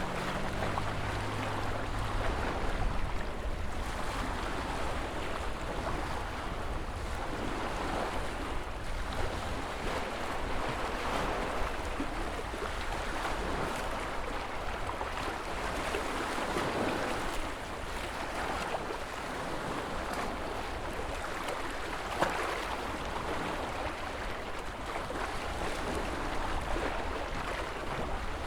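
Ocean surf: waves washing in and breaking in a steady rush that swells every few seconds, over a low rumble.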